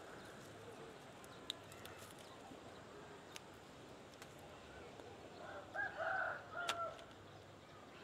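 A bird calls once, a short broken phrase about a second long, about six seconds in, over a faint steady background; a few light clicks come before it.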